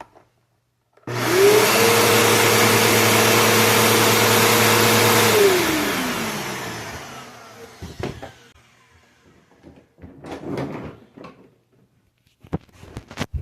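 Bissell PowerForce Bagless Turbo vacuum cleaner switched on about a second in, its motor whining up to speed and running steadily for about four seconds. It is then switched off and winds down with a falling whine. A few light knocks and clicks follow near the end.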